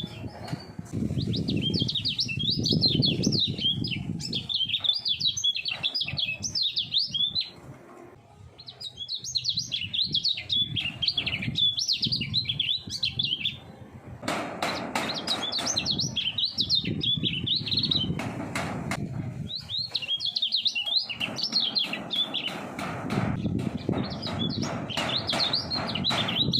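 Kecial kuning (a white-eye) singing long runs of fast, rapidly warbling chirps, broken by short pauses, over a low background rumble with scattered clicks.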